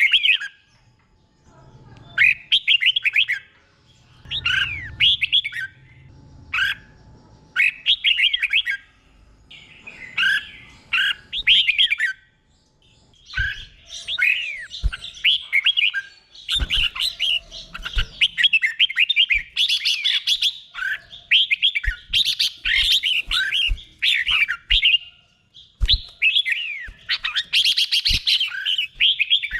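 Red-whiskered bulbul singing quick warbled phrases of gliding notes, in the doubled 'beun' style of repeated phrases. At first the phrases come in short bouts with pauses between them; from about halfway the song runs almost without a break.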